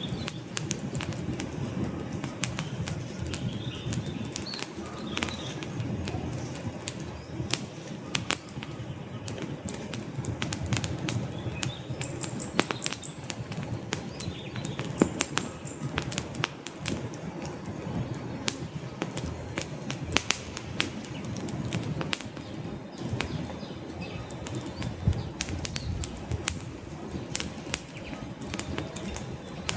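Wood log fire crackling, with frequent sharp, irregular pops and snaps over a steady low rush of burning flames.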